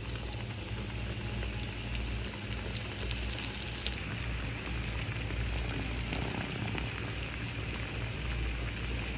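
Breaded chicken pieces deep-frying in hot oil: a steady sizzle with a few light pops.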